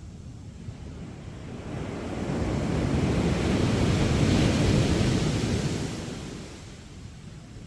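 Sea wave breaking on a sandy beach: a rush of surf that swells from about a second and a half in, peaks around the middle and washes away before the end.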